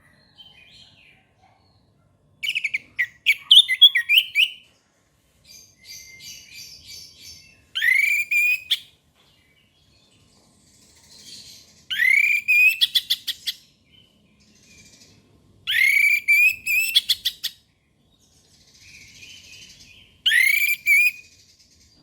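Orange-headed thrush singing. It repeats a loud phrase about every four seconds, each a rising whistle that breaks into a quick stutter of notes, with softer twittering in between.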